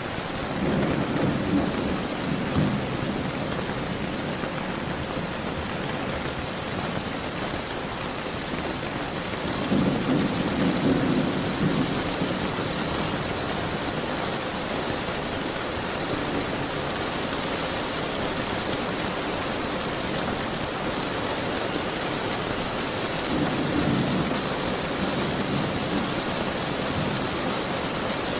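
Steady heavy rain with rolls of thunder rumbling low three times, about a second in, around ten seconds in, and again near the end.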